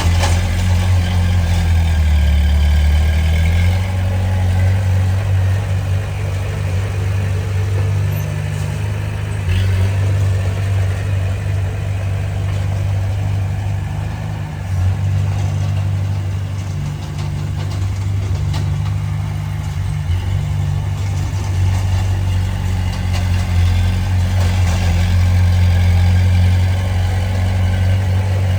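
Diesel engine of a Komatsu D20P crawler bulldozer running steadily, its low drone strengthening and easing every few seconds as the load changes.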